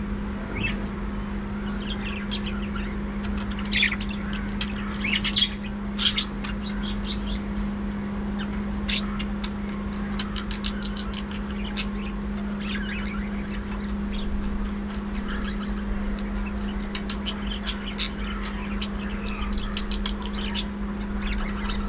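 A flock of budgerigars chattering, with many short overlapping chirps and squawks, over a steady low hum.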